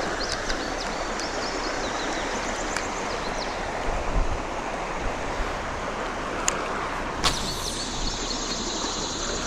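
Creek water running steadily over a riffle, with faint high chirping in the first few seconds and again near the end, and two sharp clicks about two-thirds of the way through.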